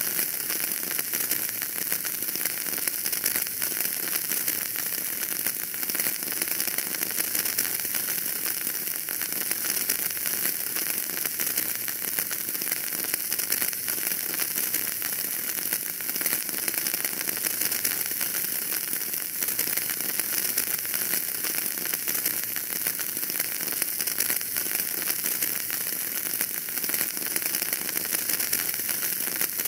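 Wood fire burning in a fireplace: a steady hiss with dense, small crackles and pops.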